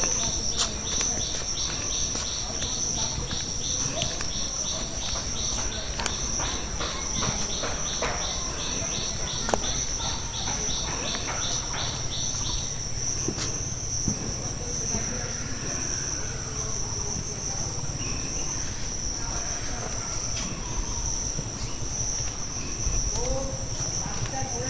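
Insects trilling steadily in a high, even drone, with a second insect chirping in regular pulses, about three a second, that stops about halfway through.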